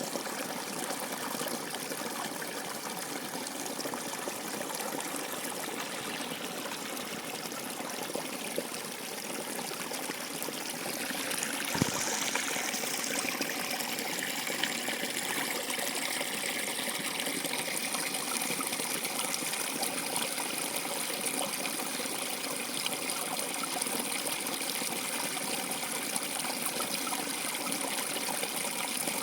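Running water trickling steadily, somewhat louder and brighter from about ten seconds in. A single sharp tap sounds about twelve seconds in.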